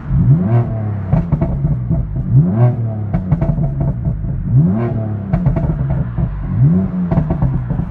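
BMW M4's twin-turbo straight-six, through a performance exhaust, revved hard four times about two seconds apart, each rev rising, holding and falling. Short sharp cracks and pops come from the exhaust between the revs.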